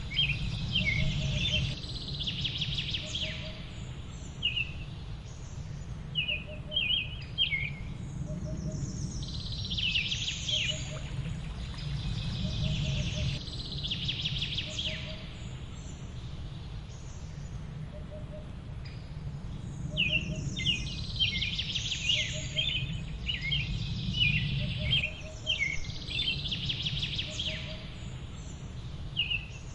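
Songbirds chirping in quick clusters of short high notes that come and go every few seconds, with a faint lower note repeating about once a second, over a steady low rumble of background noise.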